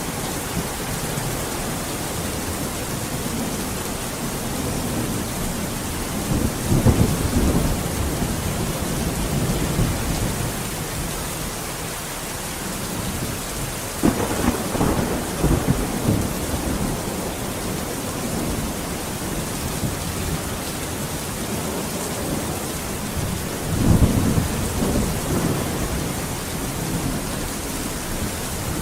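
Steady heavy rain with rolling thunder: three low rumbles about a quarter, half and four-fifths of the way through, the middle one opening with a sharp crack.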